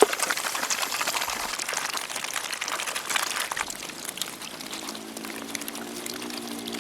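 Water splashing and trickling, with many small droplet ticks that slowly die down. Quiet music with held notes comes in about two-thirds of the way through.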